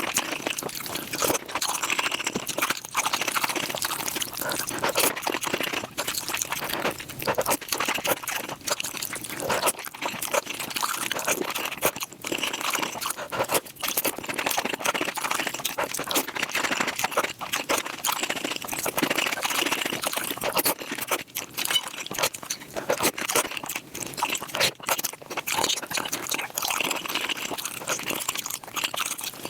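Close-miked mukbang eating sounds played back at five times speed: a dense, unbroken run of rapid chewing and crunching mouth noises.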